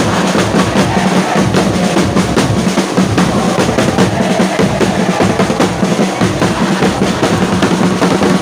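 Football supporters' drums beating a steady, fast rhythm, with the stadium crowd chanting along.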